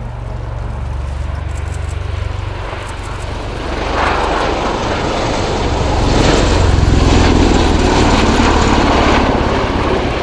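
Bell-Boeing CV-22B Osprey tiltrotor in flight, its twin proprotors beating low and its Rolls-Royce AE 1107C turboshafts running. It grows louder about four seconds in and is loudest a little after the middle as it passes close.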